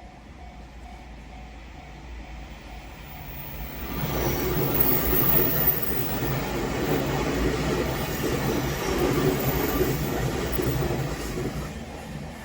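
Level-crossing bell ringing in a quick repeating tone, then an electric train runs past close by from about four seconds in, with a loud rumble of wheels on rails that eases off near the end.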